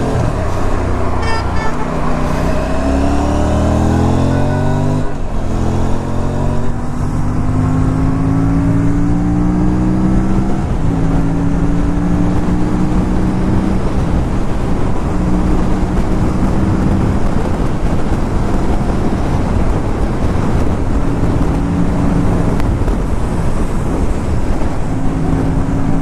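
Aprilia RS 457 parallel-twin engine accelerating away, its pitch climbing through the first several seconds with a gear change about five seconds in, then running steadily at highway cruising speed over a constant rush of wind and road noise.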